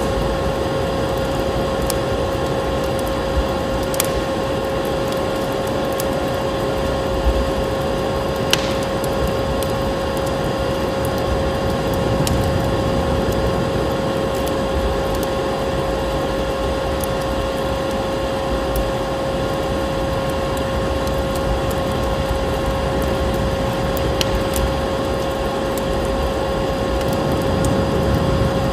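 Ambient mix of a crackling wood fire and the steady whoosh of a snowstorm, with a vacuum cleaner's motor running continuously underneath as a constant mid-pitched hum. Sharp crackles pop out now and then, clearest around four and eight seconds in.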